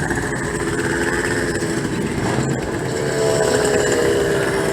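Vehicle engines running in street traffic, with a steady engine drone that grows louder about three seconds in as a vehicle approaches.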